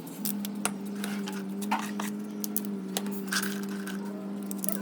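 Light, sharp clinks and taps of hard objects coming at irregular times, over a steady low hum that sets in just at the start.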